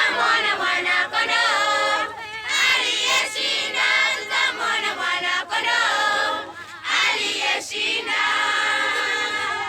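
A group of voices singing together as a choir, with wavering held notes and short breaks between phrases.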